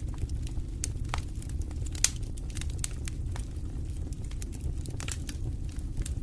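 Wood fire crackling in a fireplace: irregular sharp snaps and pops over a steady low rumble, with one louder pop about two seconds in.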